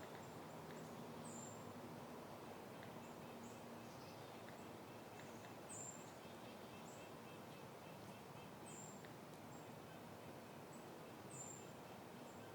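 Faint outdoor ambience: a soft wind hiss, over which a small bird repeats a short, very high, slightly falling chirp about six times.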